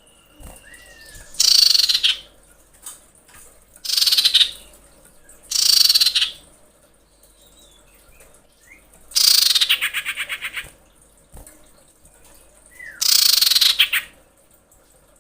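Female common iora giving five harsh, screeching calls a few seconds apart. The fourth is longer and ends in a rapid stuttering rattle. This is the breeding female's call to males.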